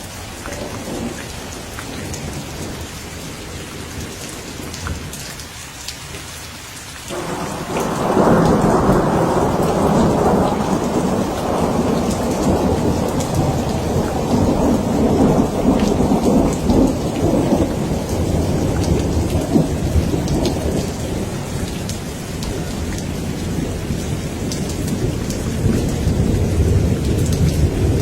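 Steady rain with a long roll of thunder that starts suddenly about a quarter of the way through, rumbling loudly for over ten seconds, then easing back to a lower rumble under the rain.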